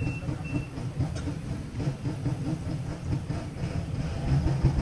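A large engine running with a low, uneven rumble; two short high beeps sound at the very start.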